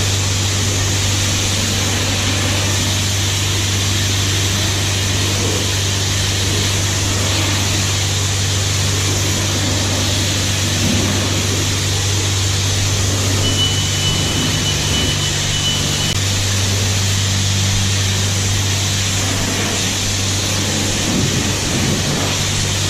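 Car wash high-pressure spray wand spraying wax onto a car's side: a steady hiss of spray over a constant low hum.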